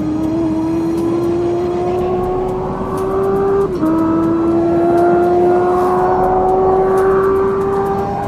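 Car engine pulling hard under acceleration, its note climbing slowly, with a quick gear change about four seconds in where the pitch drops and then climbs again.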